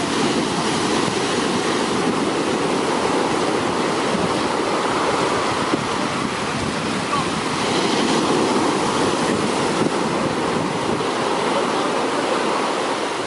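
Large sea waves breaking and washing up a beach in a continuous rushing noise, swelling a little louder about two thirds of the way through.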